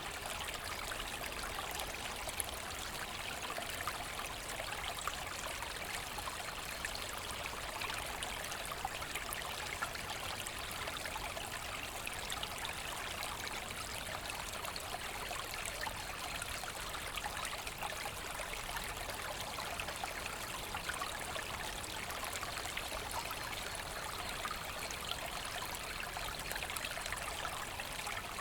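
Forest brook running steadily, with continuous babbling and trickling of water over stones.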